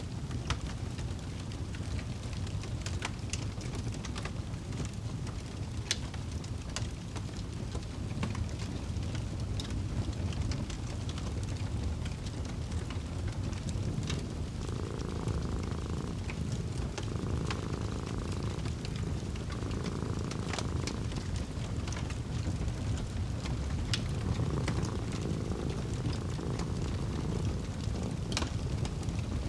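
Wood fire crackling in a fireplace, with scattered sharp pops, over a cat's low, steady purr.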